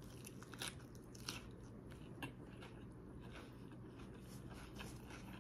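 A person chewing a mouthful of salad with lettuce, red onion, tomato and fried shrimp: faint, irregular crunches and wet clicks.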